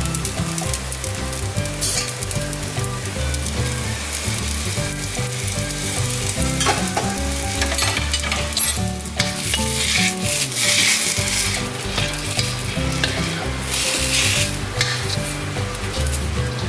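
Soaked glass noodles sizzling in hot oil and sauce in a wok as they are stir-fried. The sizzle swells louder twice, around the middle and again a few seconds later.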